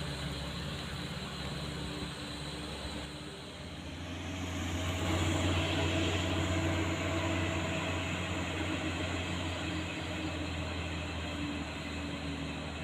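A truck engine running steadily, louder from about four seconds in, over a steady hiss.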